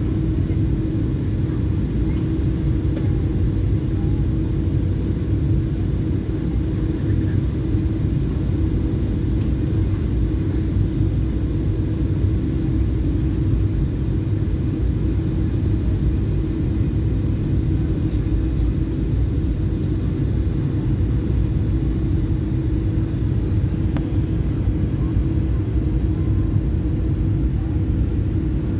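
Steady cabin drone of an airliner in flight: a constant low rumble of engines and airflow with a steady hum on top, unchanging throughout.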